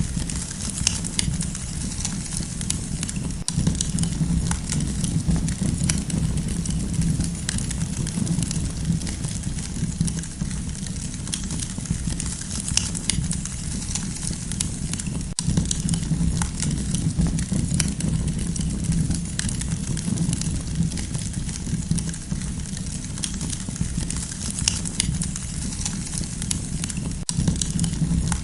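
Campfire crackling, with frequent small pops and snaps over a steady low rumble.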